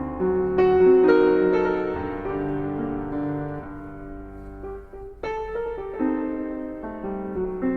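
Background piano music: a slow, gentle melody of notes struck one after another.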